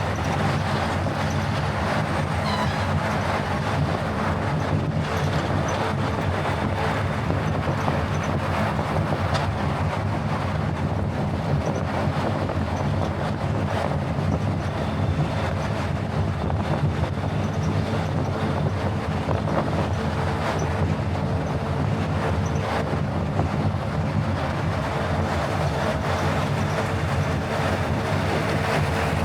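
Steady driving noise of a car on the road: tyres rolling and the engine running, with a low rumble under an even hiss.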